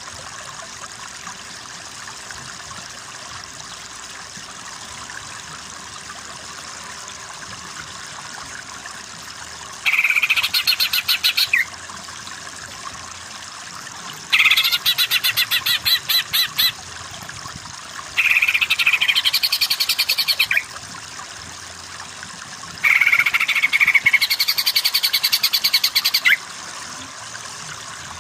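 Cucak ijo (green leafbird) singing: after about ten seconds of steady background hiss, four loud phrases of fast, rapidly repeated chirping notes, each two to three seconds long with short pauses between.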